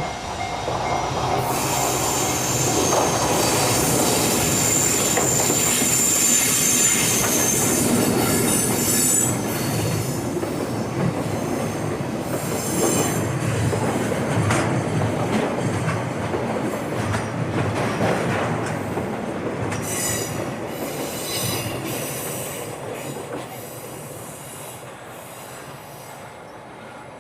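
Freight train hauled by an EF210 electric locomotive passing close by: the wagons rumble and clack over the rails. A high-pitched wheel squeal runs from about two seconds in to about eight seconds in, and the train fades away over the last few seconds.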